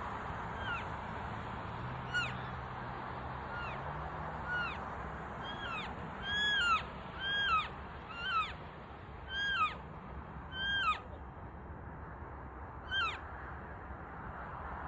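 Elk giving a series of short, high-pitched chirping calls, about one a second, each sliding down at the end, loudest in the middle of the stretch. A steady background hiss runs underneath.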